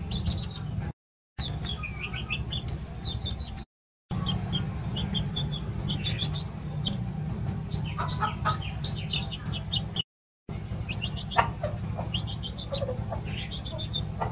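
Chickens calling: a run of short, high peeps and chirps, with a few lower clucks, over a steady low hum. The sound drops out completely three times, briefly.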